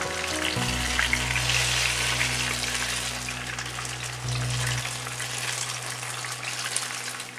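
Batter-coated banana slices (pazhampori) sizzling in hot oil in a frying pan, a dense crackling hiss, while the pieces are being turned over to fry the other side.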